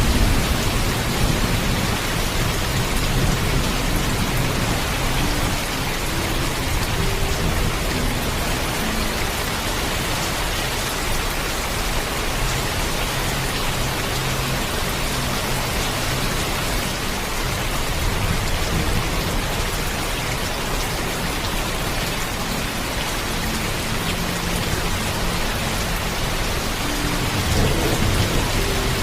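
Heavy rain falling steadily with a constant hiss, with low thunder rumbling at the start and again near the end.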